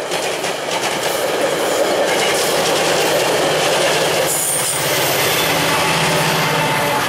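Metra bilevel commuter coaches rolling past at close range with steady wheel-and-rail noise and a brief high wheel squeal about four seconds in. The diesel locomotive at the rear of the train comes by near the end, its engine drone growing louder.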